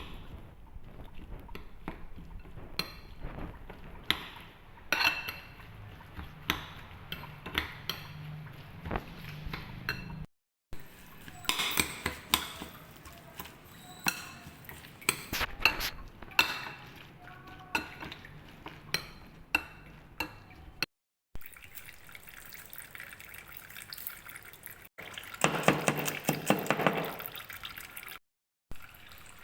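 Kitchen work during soup preparation: repeated light clinks and knocks of utensils against dishes and pots, with liquid being poured and water splashing, loudest in a short stretch of pouring near the end. The sound breaks off sharply a few times where the clips are cut together.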